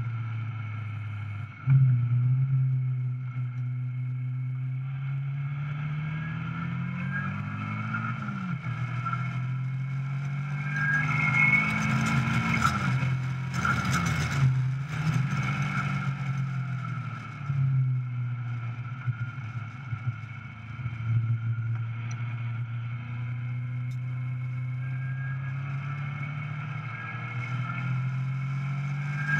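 Caterham 420R SV's four-cylinder engine heard onboard while lapping a circuit. The revs climb and drop several times through the middle as the car is driven through the gears and corners, with a rush of wind noise around the midpoint.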